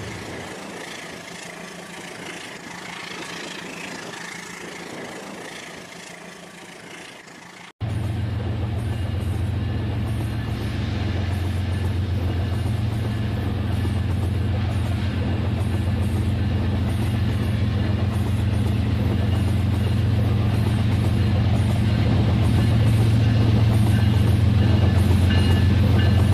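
Model train running: a steady low hum and rumble with faint high whines. It cuts off abruptly about eight seconds in and comes back louder, growing slowly.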